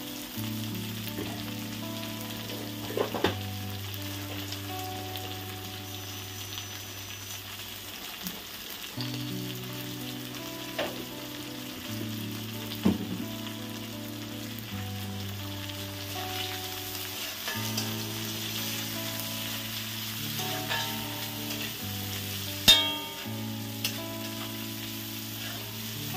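Shredded cabbage and carrots sizzling in oil in an iron kadai, with a metal spatula stirring, scraping and now and then knocking sharply against the pan, most loudly near the end. Soft background music with held chords plays underneath.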